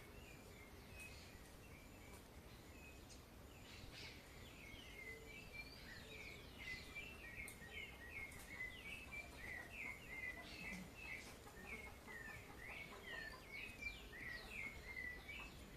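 Faint birdsong: a songbird sings quick runs of short chirping notes, picking up about four seconds in and then coming several times a second, over a steady low background hiss.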